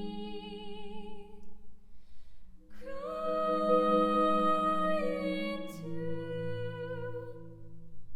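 Music: a voice holding long, slightly wavering notes over softly rolled marimba chords, with the harmony shifting about three seconds in and again near six seconds.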